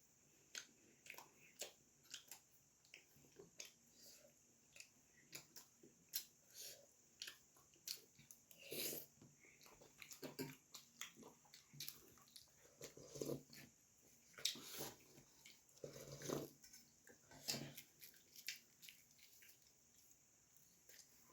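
Close-miked eating sounds of someone chewing puri and vegetable curry: irregular soft lip smacks and wet mouth clicks, a few louder smacks among many faint ones.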